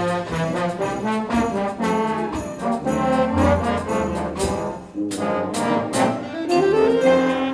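Concert band playing a holiday piece, with brass carrying the sustained chords. A few sharp percussion hits land about five to six seconds in, and a note slides upward near the end.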